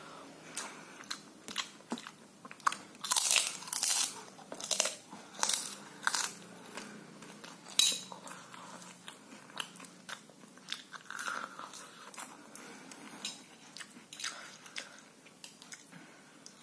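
Close-up chewing of crunchy food, with loud crisp crunches. The crunches come thick and fast from about three to six seconds in, with one sharp crunch near eight seconds, then thin out into sparser bites and chewing.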